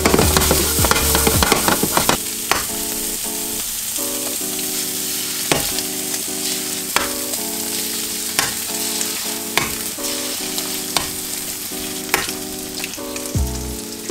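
Eggs, sliced sausage and fiddleheads sizzling in a hot frying pan with a steady hiss, over background music of stepped sustained notes and a light regular beat.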